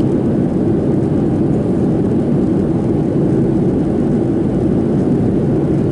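Steady cabin noise inside a Boeing 737-700 in flight: its CFM56-7B jet engines and the airflow over the fuselage make an even, low rumble.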